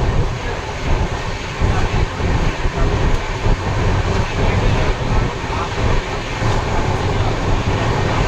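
Steady, loud rumbling noise of a moving vehicle, heaviest in the low end.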